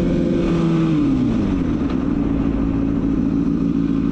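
Motorcycle engine running, its pitch dropping about a second in as the rider eases off the throttle, then holding steady.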